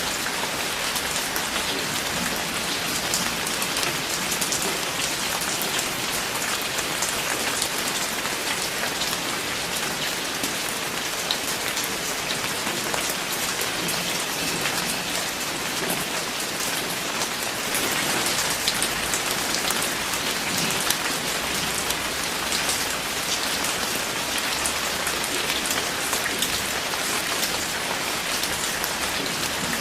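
Steady rain falling on a surface, an even hiss dense with the ticks of individual drops.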